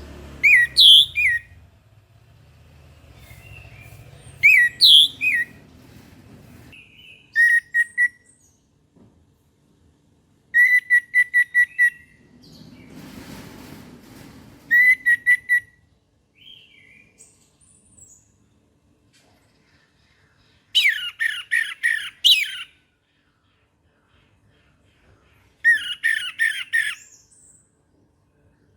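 Orange-headed thrush singing in short bursts of rapid, sharp repeated notes, about seven phrases with pauses between them. A brief rushing hiss comes about halfway through.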